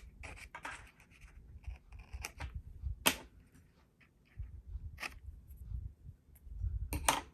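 Paper and washi tape being handled on a planner page: soft rustling with a few sharp snaps or clicks, the loudest about three seconds in and again near the end.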